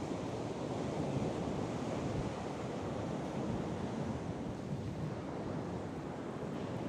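Ocean surf rushing and breaking steadily in storm conditions, with wind buffeting the microphone.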